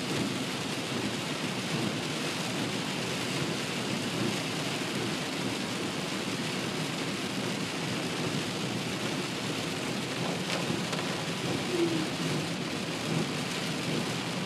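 Torrential rain pelting a car's windshield and roof, heard from inside the cabin as a steady, dense hiss.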